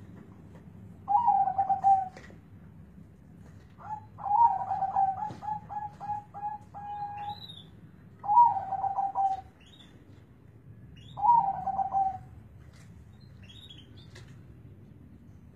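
Zebra dove (perkutut) cooing in a deep, bassy voice: four phrases of its quick staccato coo, the second a long run of notes. A few faint high chirps sound between the phrases.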